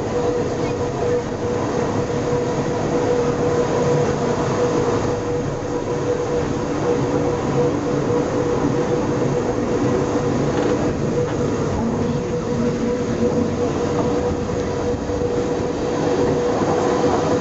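A rack (cogwheel) railway car running up steep track, heard from the driver's cab: a steady running noise with a constant whine throughout.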